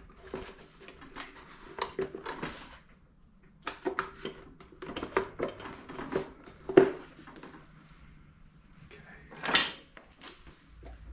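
Hands handling and fitting small parts of a pancake air compressor back together: a string of clicks and knocks, the loudest about two-thirds of the way through.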